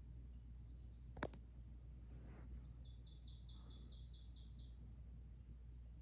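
A single sharp click about a second in, then a small bird chirping: a quick run of high chirps, about five a second, lasting about two seconds, played on the TV's bird video.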